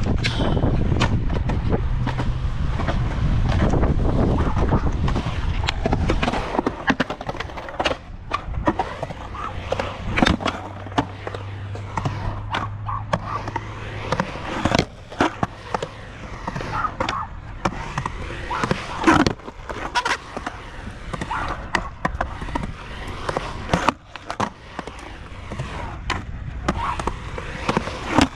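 Skateboard wheels rolling on pavement with a steady low rumble for the first several seconds, then a long string of sharp clacks and knocks from the board popping and landing.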